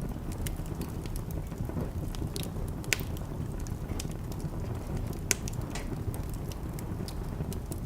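Wood fire burning in a fireplace: a steady low rumble of flames with irregular sharp crackles and pops, two of them louder, about three and five seconds in.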